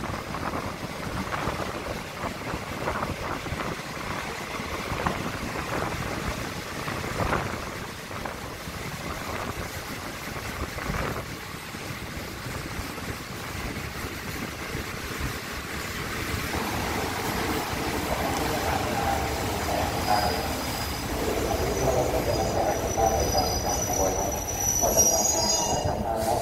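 Passenger train rolling into a station, heard from aboard: a rough running noise over the rails with frequent knocks, slowing down. In the last several seconds thin, high squeals rise over it as the train brakes to a stop.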